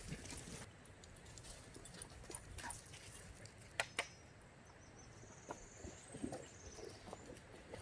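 A dog making small sounds among faint scattered clicks and rustles, with one sharper click about four seconds in.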